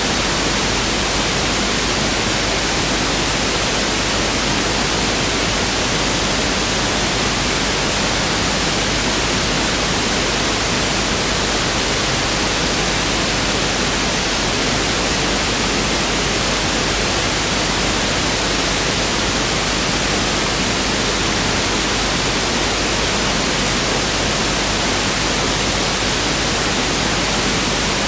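Pink noise test signal (1/f noise): a steady, even hiss spread across the whole range from low to high, with no change.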